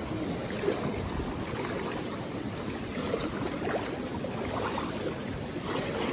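Rushing water of a waterfall and its stream, a steady splashing hiss.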